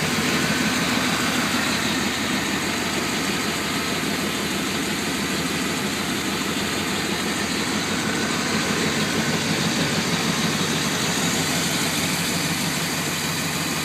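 1995 Chevy Tahoe's 5.7-litre (350) V8 with throttle body injection idling steadily, heard with the hood open.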